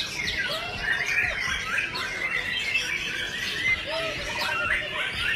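Many caged songbirds singing and chirping at once, a dense overlapping chorus of short whistled notes and trills.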